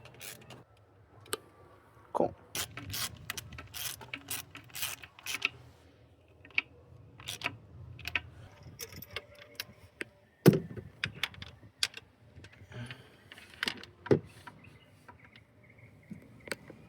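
Hand tools working on the Volvo V8 engine while its spark plugs are taken out: irregular metallic clicks and clinks of a socket wrench and tools, with one loud knock about ten seconds in.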